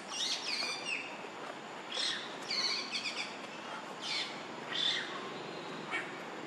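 Birds chirping: clusters of short, high, quick chirps come every second or two over a steady outdoor background.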